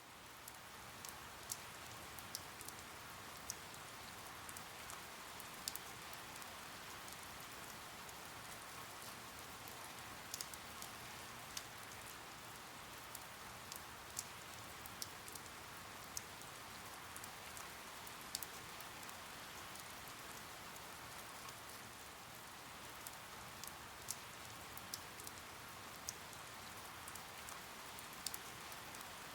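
Steady rain: an even hiss with scattered sharp drop ticks, fading up in the first second.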